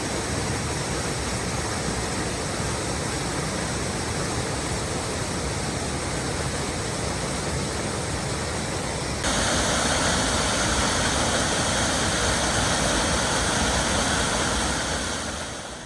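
Snake River water rushing, a steady even hiss. About nine seconds in it cuts to a brighter, slightly louder rush, which fades out near the end.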